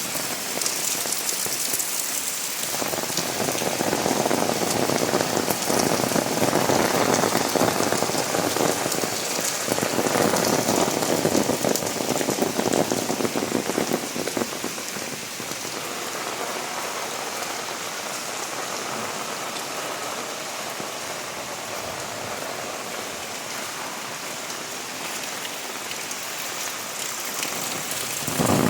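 Heavy rain falling steadily, swelling louder for several seconds before easing back to a steady downpour.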